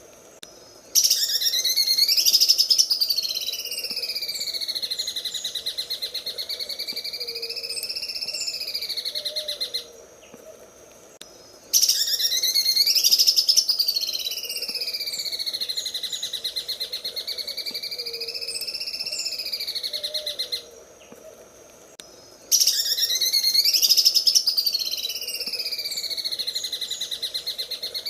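Cucak ijo (green leafbird) singing its rapid, rattling 'sewing machine' song. It comes as three long phrases of several seconds each, with short pauses between. Each phrase rises steeply at the start and then wavers up and down in pitch.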